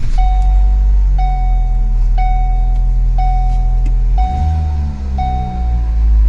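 2012 Ford Focus engine running with a loud, steady low drone, the noise that the owner puts down to a collapsed passenger-side engine mount. About four seconds in the engine note shifts upward briefly. A warning chime beeps about once a second.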